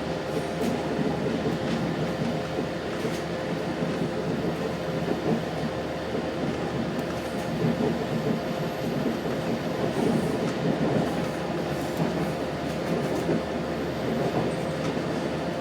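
Cabin noise inside an Adelaide Metro 3100 series railcar running along the line: a steady rumble with a constant steady whine, and now and then a faint click from the wheels.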